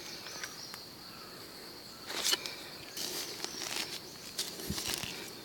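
Insects buzzing steadily with a high, even tone in outdoor ambience, with rustling and light clicks from movement through the undergrowth, loudest about two seconds in and again a second later.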